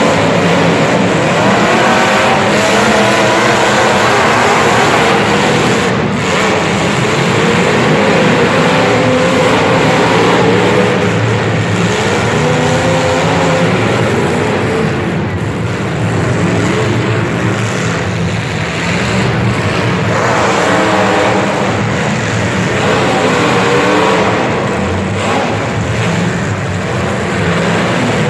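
Racing vehicle engines running hard and continuously, their pitch rising and falling as several machines rev and ease off at once.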